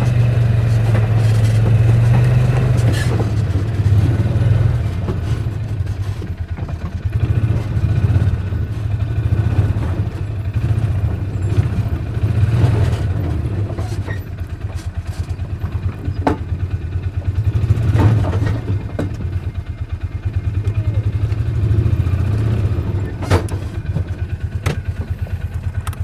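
A vehicle engine running steadily while driving, with a few sharp clanks partway through.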